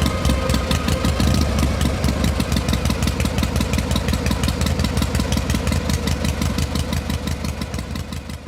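Single-cylinder motorcycle engine idling with a steady rapid beat, fading out near the end.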